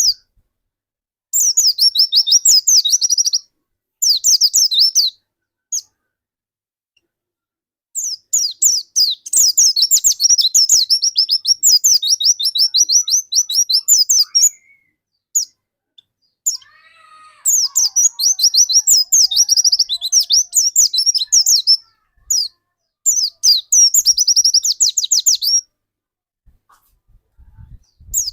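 Pleci dakun white-eye in full song (gacor): high, rapid chattering warbles in phrases of a couple of seconds to several seconds, broken by short silences. The longest runs come about a third of the way in and again past the middle.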